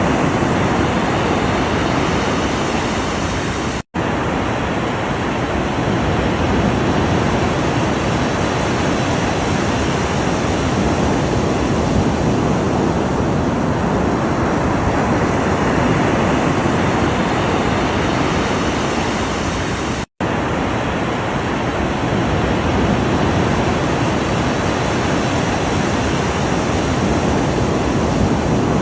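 Steady wash of ocean waves breaking, an even rushing noise with no distinct swells, cutting out for an instant twice, about four seconds in and about twenty seconds in.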